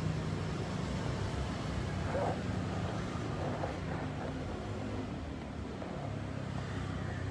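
Steady low mechanical hum, like a running engine, with a few faint short sounds about two seconds in.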